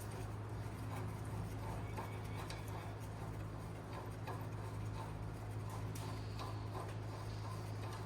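Hand ratchet clicking faintly and unevenly as a U-bolt nut is worked tight, over a steady low hum.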